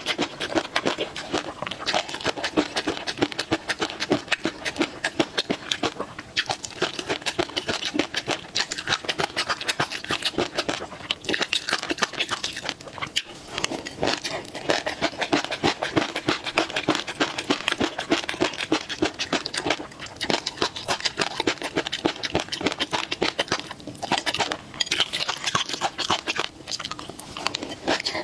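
Close-miked eating of a peanut sauce dish: dense wet chewing and crunching with mouth clicks and smacks, broken by a few short pauses.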